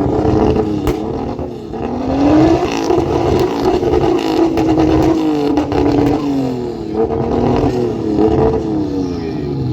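A car's engine revved repeatedly through its exhaust, the note rising and falling several times.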